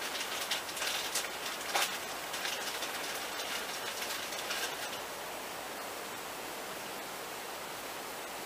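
Steady hiss of a train in motion, heard from inside the carriage. Over the first five seconds or so, irregular sharp chirps and clicks sit on top of it, then they stop and only the even hiss remains.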